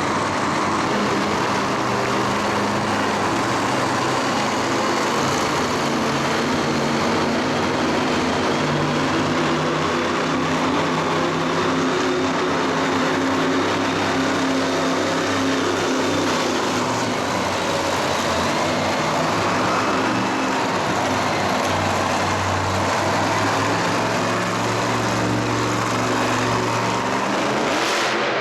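Loud, continuous motorsport engine noise in a stadium arena, the engine pitch rising and falling as the vehicles rev and ease off.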